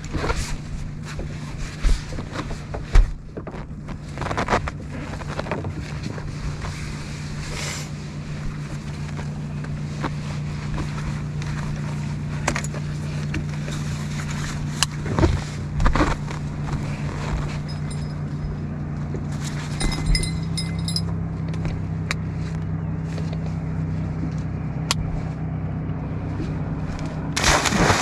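A boat's carbureted motor running steadily, its pitch stepping up slightly about twenty seconds in, with a few scattered knocks. It is a motor that the owners say needs a new carburetor.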